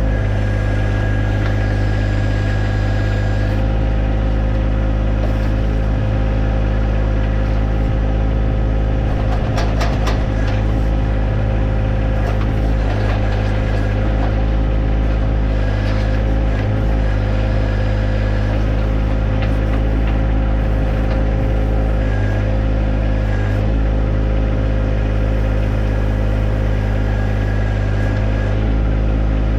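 John Deere 1025R's three-cylinder diesel engine running steadily while working the 260B backhoe, with a thin steady whine over it. A few sharp knocks come about ten seconds in.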